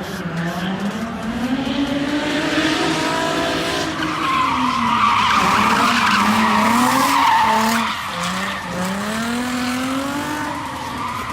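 A car drifting: its engine revs rise and fall with the throttle while the tyres squeal and skid, loudest from about four to eight seconds in.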